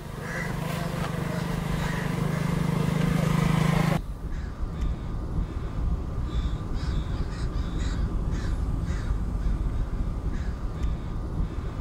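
A motorcycle engine runs steadily and grows louder as it approaches, then cuts off abruptly about four seconds in. Crows then caw repeatedly over a low rumble.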